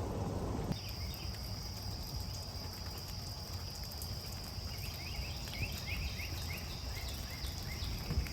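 Insects trilling steadily at a high pitch, starting under a second in, with a bird giving a run of short falling chirps in the middle, over a low outdoor rumble.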